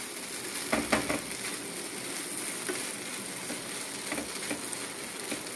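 Prawns shallow-frying in oil in a non-stick pan, sizzling steadily while being stirred with a spatula. A few short scrapes and knocks of the spatula against the pan come through, the loudest about a second in.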